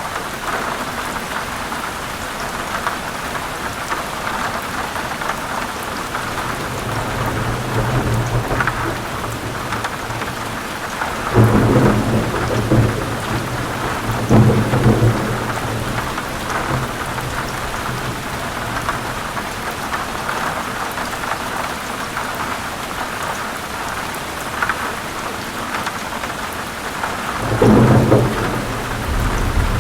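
Heavy rain falling steadily on forest leaves, with thunder rumbling: a low roll building about a third of the way in, two louder claps near the middle, and another rumble near the end.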